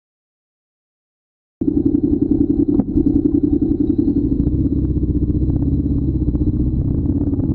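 Silence for about the first second and a half, then a motorcycle engine cuts in abruptly and runs steadily with a rapid throb.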